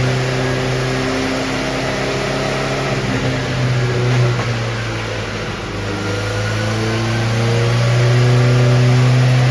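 A 750 Formula racing car's newly built engine running on a rolling road dyno. The engine speed sags in the first half, then climbs again in the second half.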